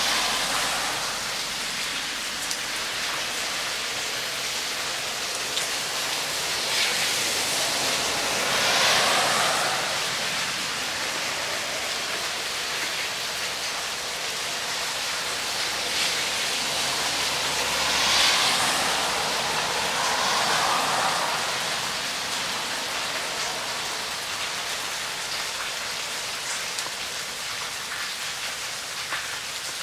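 Steady rain falling, swelling louder about eight seconds in and again around eighteen seconds.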